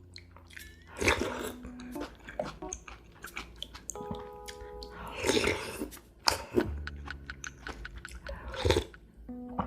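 Close-miked eating sounds: biting and chewing mouthfuls of food, with louder bouts about a second in, about halfway through and near the end.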